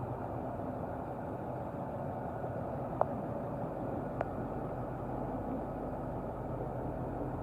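International 4300 box truck's diesel engine idling steadily, with two short clicks about three and four seconds in.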